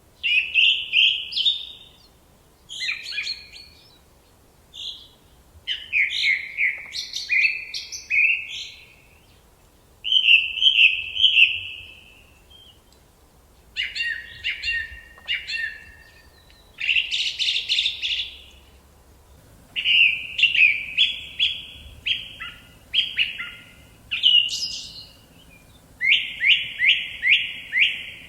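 A songbird singing in a forest, about ten short, varied phrases of whistles and rapid trills, each a second or two long, separated by brief pauses.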